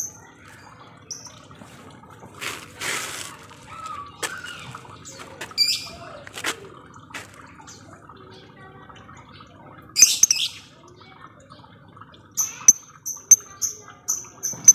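Lovebirds calling: scattered short, sharp high chirps of the 'ngetik' kind, with a loud harsh call about ten seconds in, then a quick run of high chirps at about three a second near the end.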